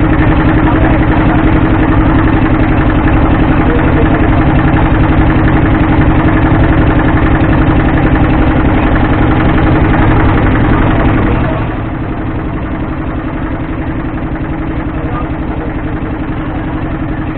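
Motorboat engine running steadily with an even pulse. It becomes quieter about eleven and a half seconds in.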